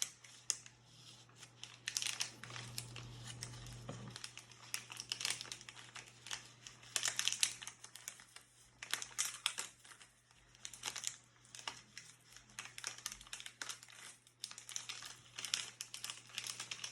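Plastic wrapper of a surprise toy pack crinkling and tearing as it is handled and opened, in irregular crackles.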